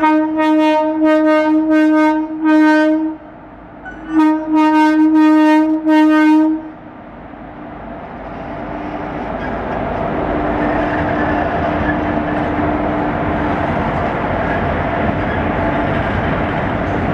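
Indian Railways locomotive horn sounding two long, steady blasts, the first about three seconds and the second a little shorter. Then a train's running rumble builds up and stays loud and steady as the train passes.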